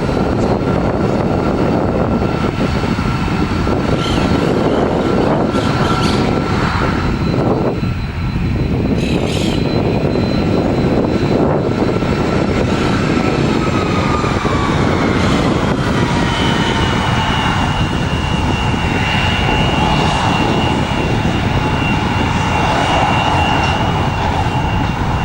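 CRJ-900 regional jet's twin GE CF34 turbofans at high power, a loud steady rush with a high whine. About halfway through, the whine drops in pitch as the jet passes.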